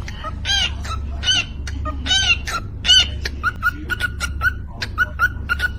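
Parakeet calling: a string of arched, squawky calls in the first three seconds, then a run of short, repeated chirps at about three a second, over a steady low hum.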